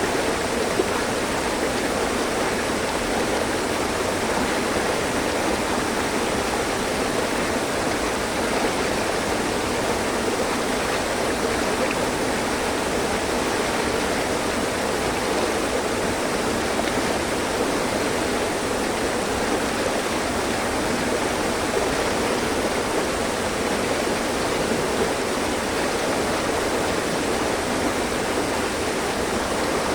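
Mountain stream: water running over rocks in a steady, even rush with no breaks.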